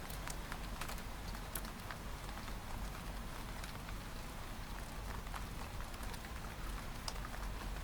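Steady rain on a window pane: an even hiss with a low rumble beneath and irregular sharp ticks of single drops tapping against the glass.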